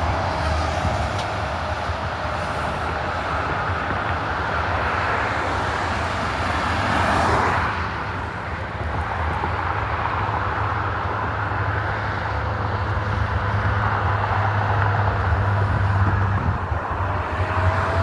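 Road traffic: a steady low engine drone, with one vehicle passing close about seven seconds in, its noise swelling and then falling away.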